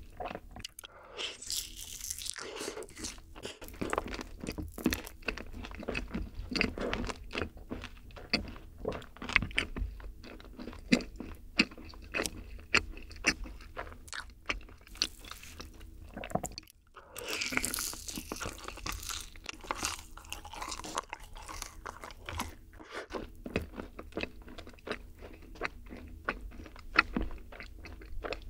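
Close-miked chewing and crunching of yakgwa, Korean fried honey cookies, topped with ice cream, a dense run of sticky, clicky mouth noises with louder bursts of crunching about two seconds in and again a little past halfway.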